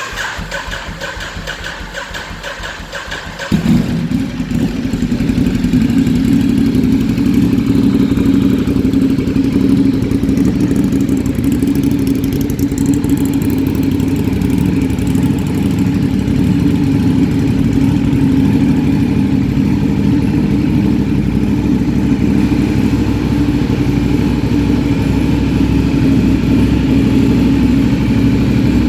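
A 2015 Ducati Diavel's 1198 cc L-twin is cold-started. The starter cranks for about three and a half seconds, then the engine catches and idles steadily.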